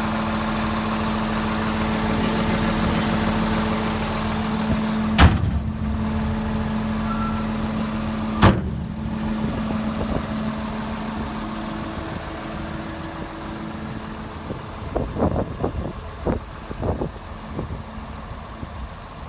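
Volvo EC300E long-reach excavator's diesel engine idling steadily, with two sharp bangs about five and eight seconds in. The engine grows fainter in the second half, and a run of lighter knocks follows near the end.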